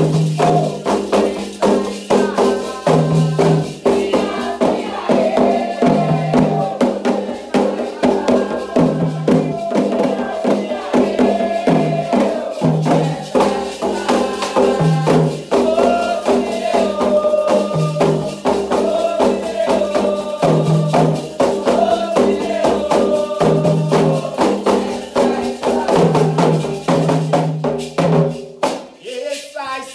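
Candomblé toque for Ogum: atabaque hand drums beaten in a fast, driving rhythm with rattling shakers and voices, stopping about a second before the end.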